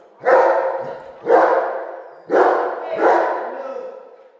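A dog barking four times, loud and deep, each bark ringing on in a large echoing room.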